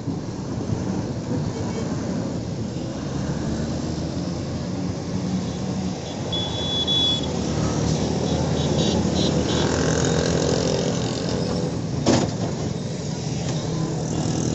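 City road traffic noise, steady and busy, with a short high-pitched tone about six seconds in and a single sharp knock about twelve seconds in.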